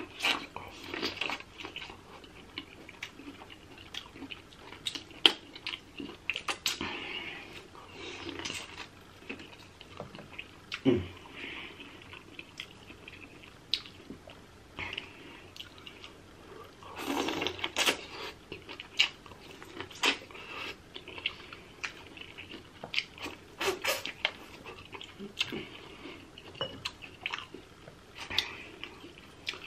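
Close-miked eating sounds from a seafood boil: chewing and wet lip smacking, with many short sharp clicks and cracks scattered throughout, the loudest cluster about seventeen to eighteen seconds in.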